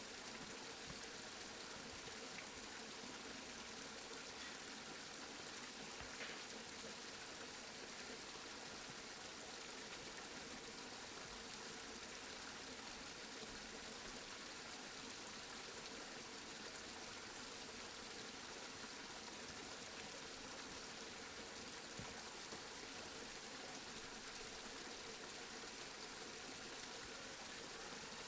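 Steady rainfall: an even, faint hiss of rain with a few soft drop ticks.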